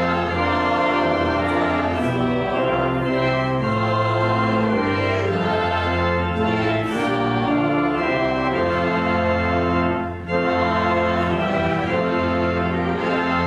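The church's newly rebuilt organ playing full sustained chords over a moving bass line, with a brief break about ten seconds in.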